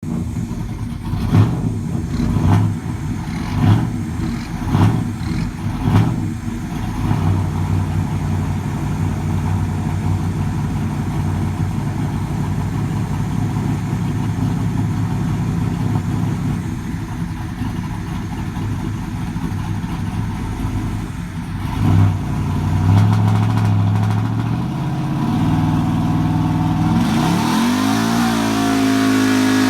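LS-series V8 engine in a pulling truck: a few sharp throttle blips in the first six seconds, then steady running. Near the end the revs climb quickly and hold high and loud.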